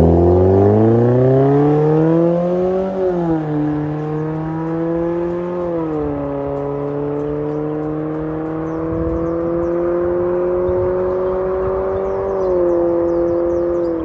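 Exhaust note of a Nissan Sentra's HR16DE 1.6-litre four-cylinder through an MS-R valved cat-back exhaust, under throttle. The pitch climbs for about three seconds, drops twice in steps, then rises slowly and evenly before dipping slightly near the end.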